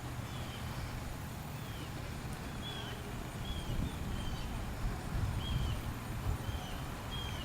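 A bird chirping, short high calls repeated about once a second, over a steady low outdoor rumble with a few soft low thuds.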